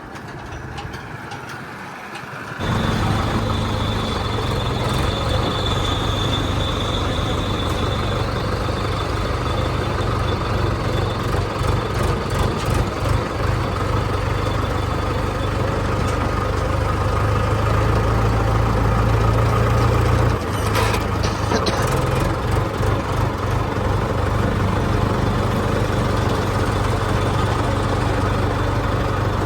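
Heavy diesel machinery engine running loud and steady, starting abruptly about two and a half seconds in, with a faint high whine over it for the next few seconds. It works harder and grows louder toward two-thirds of the way through, then drops off sharply with a short burst of noise before settling back to a steady run.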